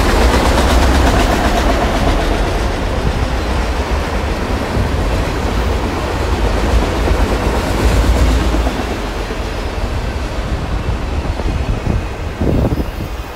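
Freight train of autorack cars rolling past on the rails, a steady heavy rumble of wheels on track. The deep rumble drops off about two-thirds of the way through as the cars draw away.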